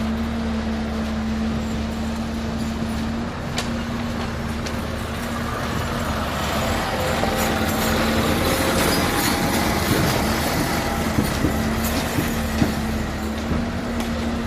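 An engine running steadily with a constant hum and low rumble, growing a little louder midway, with a few sharp clicks or knocks in the latter part.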